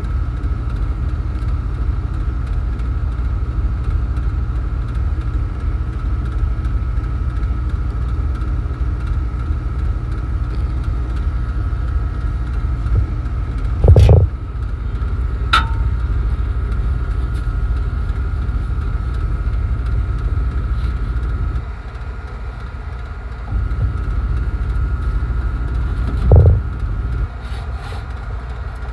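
Steady low machinery rumble with a faint constant whine, dipping briefly about two-thirds of the way in. A loud knock comes about halfway, a sharp click just after it, and another knock near the end.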